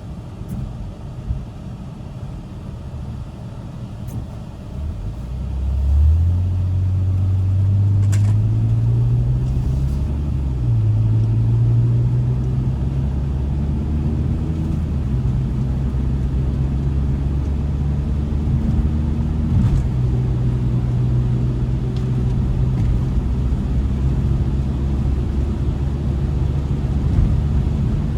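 BMW E60 sedan's engine pulling away and accelerating, its pitch rising, dropping once about ten seconds in as it shifts up, then climbing again and settling into a steady cruise.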